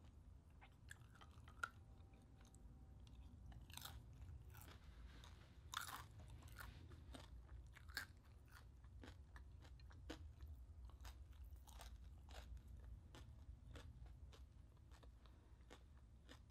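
Faint close-up crunching and chewing of crispy deep-fried pork mesentery (chicharon bulaklak): irregular sharp crunches, the crispest a few seconds in, then softer chewing.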